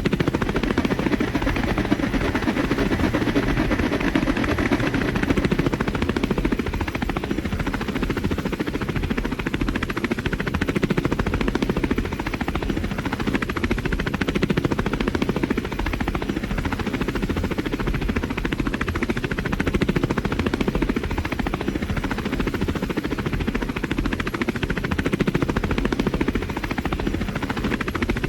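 Helicopter rotor blades chopping at a rapid, steady beat.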